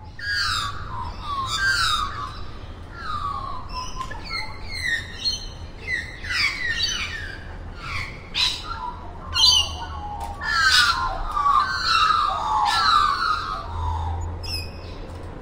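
Australian magpie singing: a dense run of fluting notes, many sliding down in pitch, mixed with some harsher, raspy calls.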